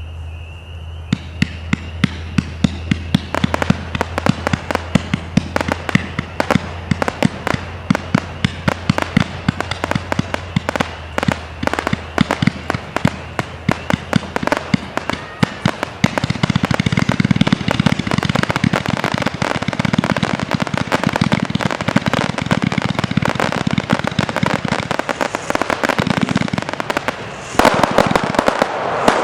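A 220-shot consumer firework cake firing: many small shots pop in rapid succession from about a second in. The shots grow denser about halfway through, and there is a loud, dense volley near the end.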